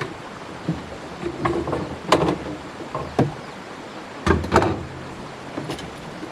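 A series of irregular knocks and thuds, about seven, with the loudest pair near the middle and a short ringing after some of them, over a steady background hiss.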